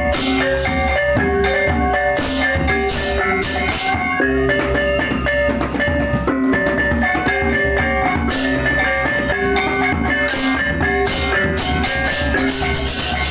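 Balinese baleganjur gamelan playing: bronze gongs and kettle-gongs sound in interlocking patterns, with repeated crashes of ceng-ceng cymbals and drums underneath.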